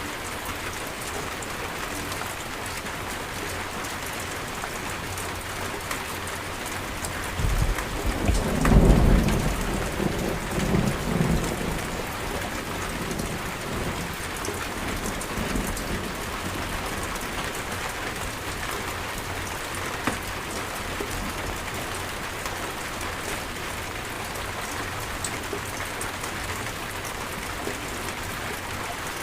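Steady heavy rain hissing, with a roll of thunder rumbling about seven to twelve seconds in, loudest around nine seconds, and a fainter rumble a few seconds later.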